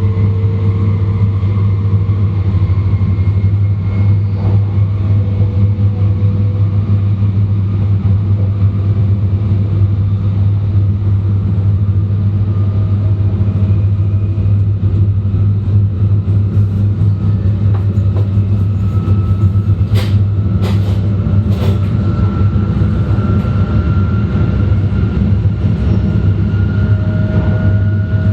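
E2 series Shinkansen with Mitsubishi IGBT inverters running, heard from the vestibule deck: a steady, loud low rumble, with faint whining tones from the traction equipment rising slowly in pitch as the train gains speed. A few sharp clicks come a little past two-thirds of the way through.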